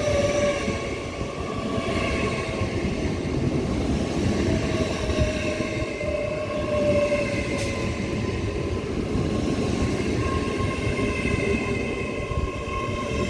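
LNER Class 801 Azuma electric multiple unit pulling into the platform: a steady rumble with faint whining tones over it.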